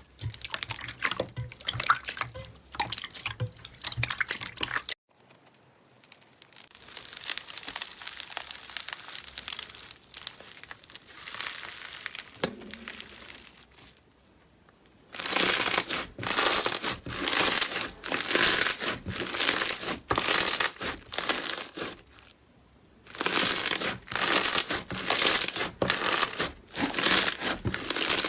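Slime being squished, pressed and stretched by hand, with sticky crackling and popping. In the second half it is pressed in a steady rhythm, about two squishes a second.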